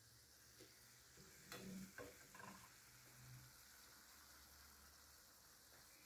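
Kofta fingers and diced potatoes sizzling faintly in oil in a frying pan. A few louder knocks come about one and a half to two and a half seconds in.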